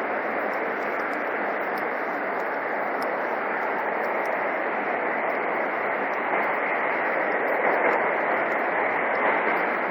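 Steady rush of a motorcade's cars and motorcycles driving past, an even wash of tyre and engine noise with no single vehicle standing out.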